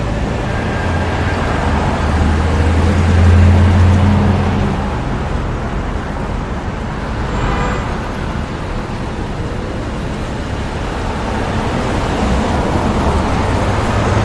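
Road traffic noise, with a motor vehicle's engine hum swelling about two to five seconds in.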